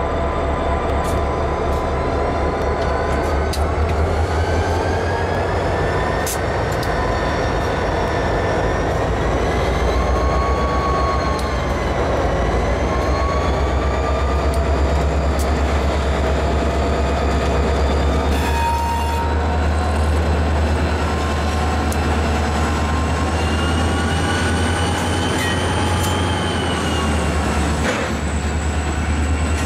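Reading & Northern diesel freight locomotives passing slowly, their engines running with a steady deep drone. Over it, wheels give a thin, wavering high squeal, with scattered clicks from the rolling train.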